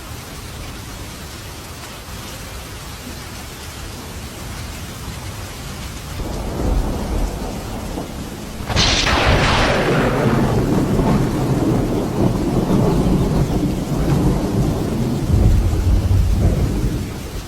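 Thunder over steady rain: a low rumble starts building about six seconds in, a sharp thunderclap cracks about nine seconds in, and the thunder then rolls on loudly before fading near the end.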